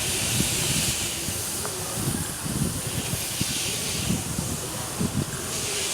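Steam locomotive hissing, with steam escaping in swells that come and go about three times, over a low rumble and scattered knocks.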